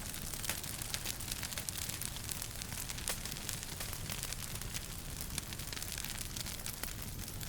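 Wood fire crackling in a fireplace: a dense run of small pops and snaps over a steady hiss.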